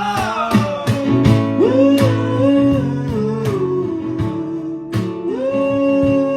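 Acoustic band playing the opening of a song: regular guitar strumming under a melody line that slides up, holds and slides down.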